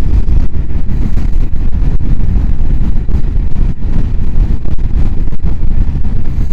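Steady wind noise buffeting the microphone of a moving motorcycle, with the bike's engine running underneath.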